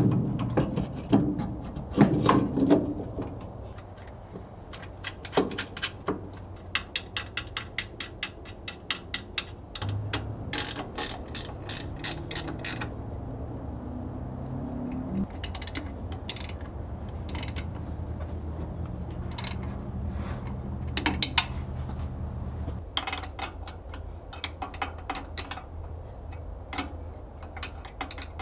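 Hand ratchet wrench clicking in repeated quick runs as fasteners are turned, with a couple of louder metal clunks in the first few seconds, over a low steady hum.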